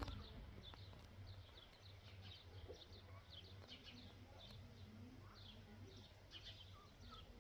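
Faint chirping of small birds: many short, high chirps coming irregularly, over a low steady hum.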